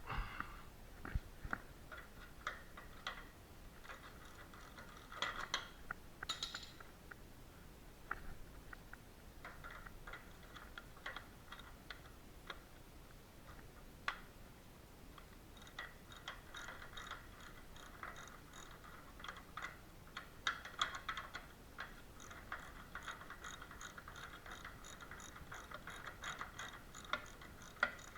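Socket ratchet clicking in short runs and then a longer steady run, loosening a car door's hinge bolt.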